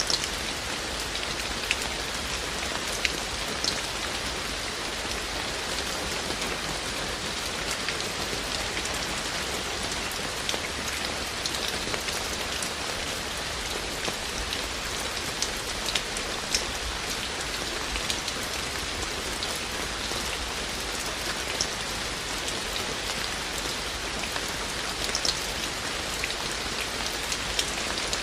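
Steady rain falling, an even hiss with scattered individual drop ticks, louder ones now and then.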